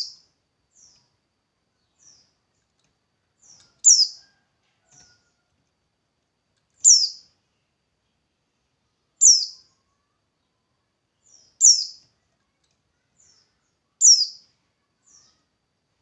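A songbird repeats a short, high, downward-slurred call about every two and a half to three seconds, with fainter short calls in between.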